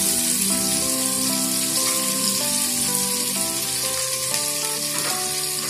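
Bell pepper strips and boiled potatoes sizzling in hot oil in a non-stick pan: a steady frying hiss. Background music plays along, a simple melody of held notes changing about every half second.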